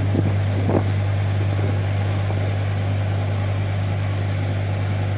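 Car ferry's engines running with a steady low hum as the ship comes in to berth.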